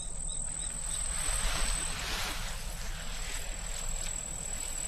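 Steady high-pitched insect trill, with a soft rushing hiss that swells about two seconds in.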